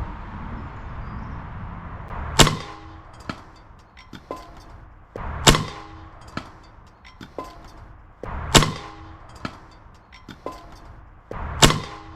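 Umarex AirSaber arrow rifle firing and the arrow striking a steel saucepan: a sharp crack with a metallic ring, followed by a few small knocks. The same shot is heard four times, about three seconds apart.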